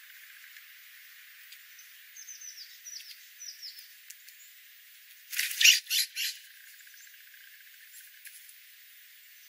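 Bird calls: little runs of short, high, falling chirps, then three loud, harsh, noisy calls in quick succession a little past the middle.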